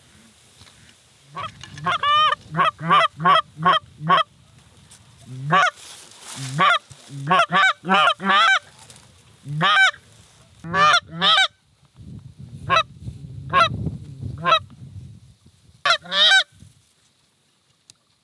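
Goose honks and clucks in quick runs of several calls, about two or three a second, loud and close, with short gaps between the runs.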